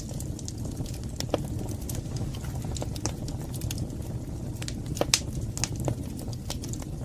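Wood fire burning in a fireplace: a steady low rumble of flames with irregular sharp crackles and pops, the loudest pop about five seconds in.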